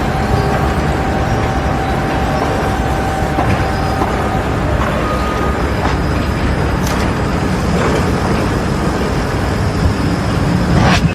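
A heavy vehicle's engine running steadily, with a thin steady whine over it for the first few seconds.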